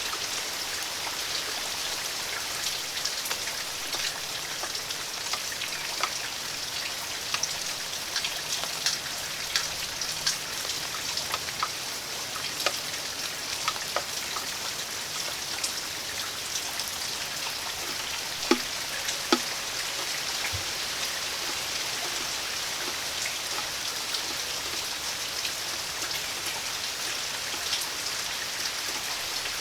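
Steady rain falling, with many individual drops ticking sharply on nearby surfaces and two louder drop hits a little past halfway.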